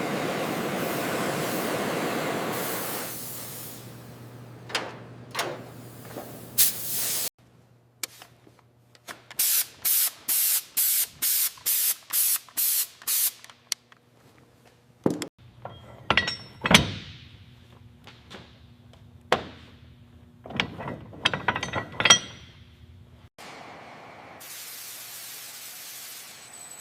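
A run of short hissing spray bursts, about two a second, followed by scattered metallic clinks and knocks of tools, then a steady hiss near the end.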